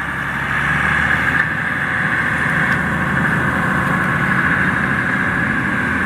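An engine running steadily, growing louder over the first second and then holding level.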